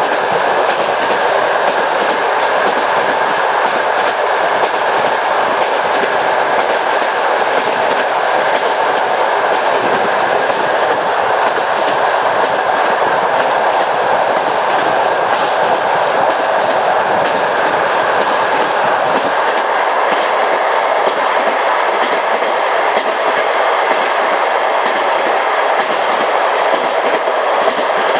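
Passenger train running at speed: its wheels click steadily over the rail joints in a continuous clickety-clack over a steady rushing rail noise.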